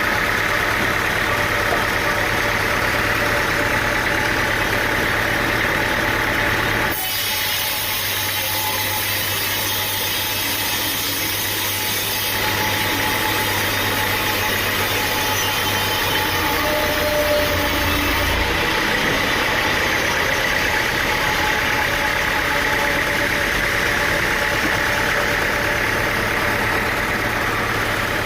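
Sawmill machinery with an engine running steadily. The sound changes abruptly several times, about 7, 12 and 18 seconds in.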